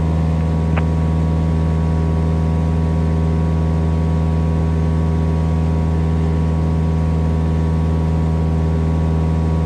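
Cessna 172S's four-cylinder Lycoming engine and propeller droning steadily in cruise.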